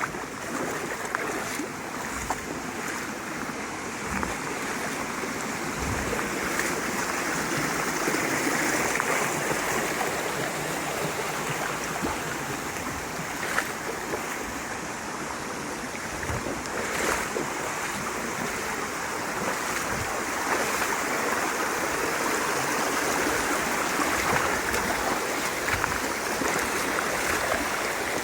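Mountain stream water rushing steadily over rocks, with a few short knocks.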